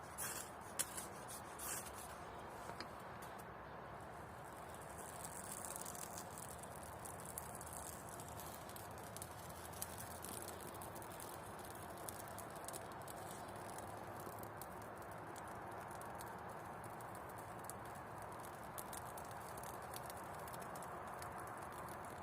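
Wood campfire burning: a steady, faint hiss with many small crackles and pops, a few louder pops in the first couple of seconds.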